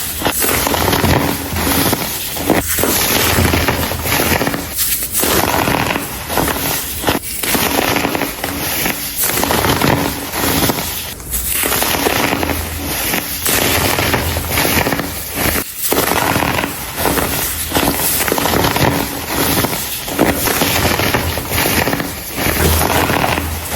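Dried, dyed baking soda being crushed and crumbled by hand in close-up, a dense run of crackling crunches with brief pauses every second or two.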